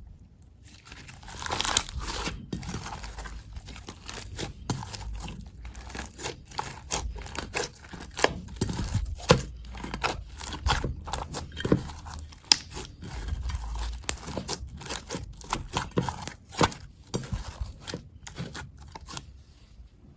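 Slime being squeezed and pulled by hand, giving a dense run of irregular crackling pops with a softer tearing texture between them. The pops start about a second in and stop shortly before the end.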